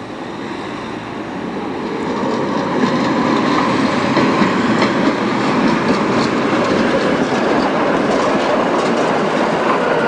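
Electric tram running on street track, growing louder over the first few seconds, then a steady rumble with wheel clatter and clicks over rail joints and points.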